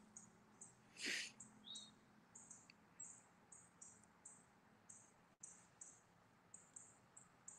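Faint birdsong in woodland: a string of short, high chirps about twice a second and one lower down-slurred call a little under two seconds in. A single louder puff of breath-like noise comes about a second in.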